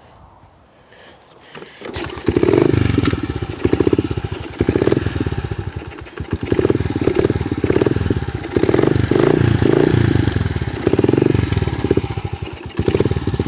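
Honda XR70R's small 70cc four-stroke single-cylinder engine catches about two seconds in and runs unevenly on the choke, its revs rising and falling every second or so, after sitting unused for a year or two.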